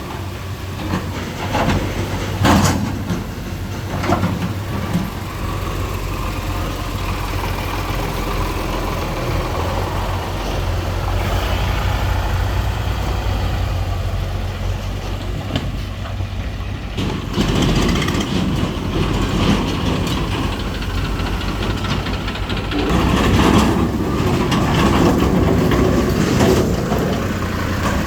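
Diesel tractor engine running steadily under load, with occasional sharp knocks and rattles. It grows louder and heavier about five seconds before the end.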